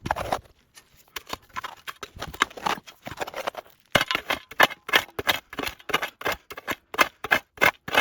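Knife chopping in quick strokes: scattered cuts at first, then a fast, even run of about five chops a second from about halfway.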